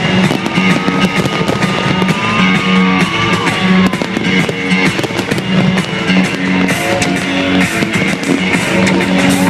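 Guitar-led rock music playing with fireworks going off over it: many sharp bangs and crackles throughout.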